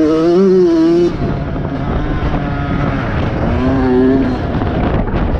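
Motocross motorcycle engine revving hard, dropping off about a second in, then revving up and back down again near the four-second mark.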